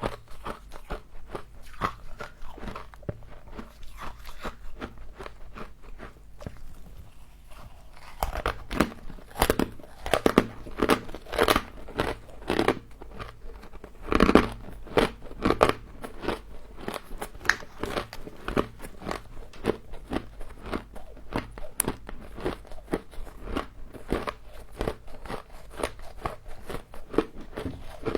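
A person biting into and chewing crunchy frozen frost: rapid crackling crunches all through, louder and denser from about eight seconds in until about sixteen seconds in.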